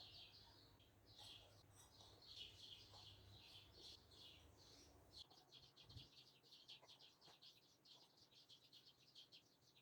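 Faint birdsong: scattered chirps, then a quick, even trill of short notes from about halfway.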